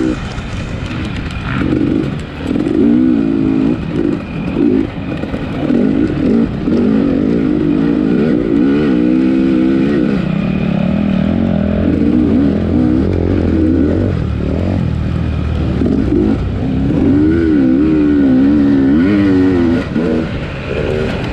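250cc dirt bike engine under race load, heard from on the bike, revving up and falling back over and over as the rider accelerates, shifts and rolls off.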